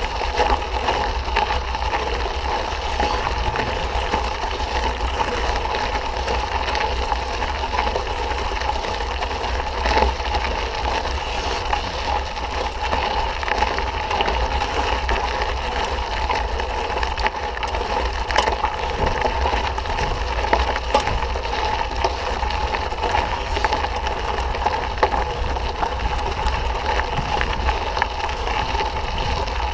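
Mountain bike riding on a dirt trail: steady tyre and wind noise with a deep rumble, broken by scattered short clicks and rattles.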